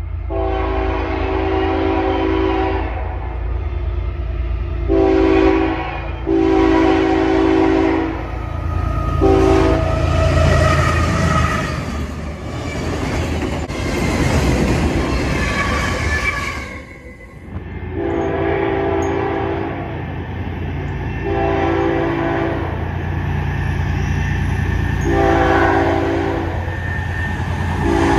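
Freight locomotive air horns sounding a run of long blasts and a short one, over the low rumble of trains. From about ten seconds in, the rumble and clatter of autorack freight cars rolling past close by take over with no horn, dipping briefly around seventeen seconds. Then a second BNSF freight's horn sounds three more long blasts as it approaches, with another starting near the end.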